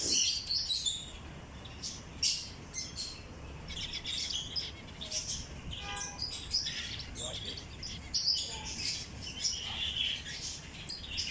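A flock of small caged aviary birds chirping and tweeting, many short high calls overlapping without pause.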